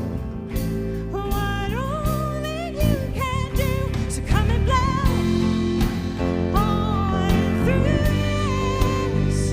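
Worship song: a singer's voice over a band with drums, keeping a steady beat.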